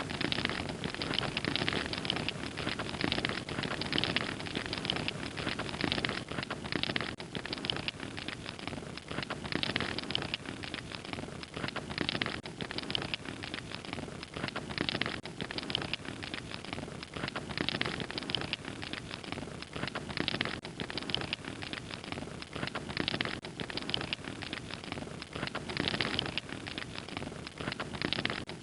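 Wood fire crackling steadily, with many small snaps and pops over a soft hiss.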